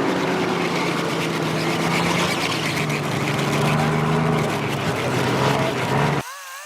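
Truck engine running steadily under a haze of tyre and driving noise. About six seconds in, the low end cuts off abruptly, leaving a thin, wavering buzz.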